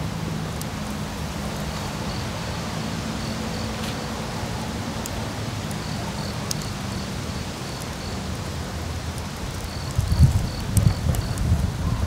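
Insects chirping in runs of short, evenly spaced high pulses, about three a second, over a steady low hum. Heavy low rumbling bursts come in near the end.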